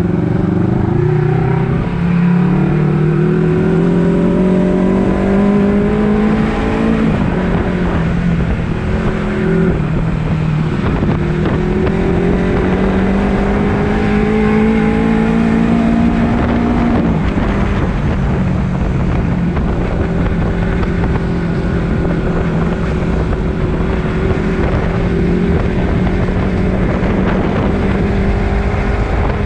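Honda CBR250RR parallel-twin engine under way, revs climbing steadily in gear, dropping sharply twice as the rider shifts up, then holding steady at cruise for the last third.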